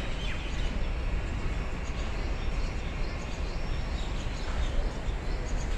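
Central Railway suburban EMU local train running past at a distance, a steady rumble.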